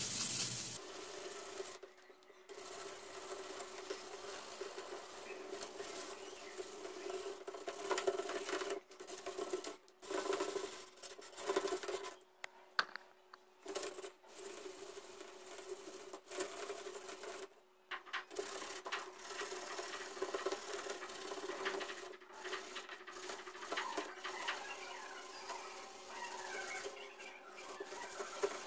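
Steady abrasive rubbing on an old car grille, as in sanding, with a faint steady hum underneath. It stops briefly several times.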